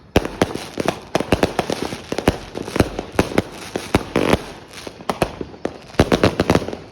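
Virus Alert 100-shot firework cake firing: a rapid string of sharp bangs, several a second, with thicker bursts of crackling pops about four seconds in and again near the end.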